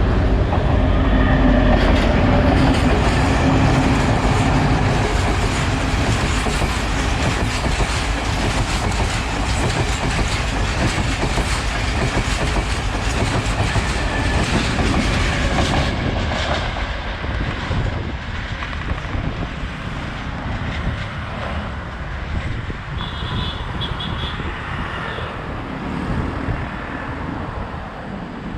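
Sri Lanka Railways Class S11 diesel multiple unit passing at speed: a loud low rumble with rapid clickety-clack of wheels over rail joints, easing off gradually in the second half.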